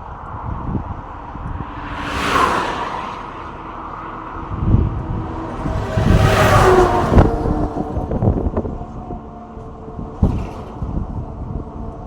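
Road traffic passing by: one vehicle swishes past about two seconds in, and a second passes about six seconds in, its engine note falling in pitch as it goes by.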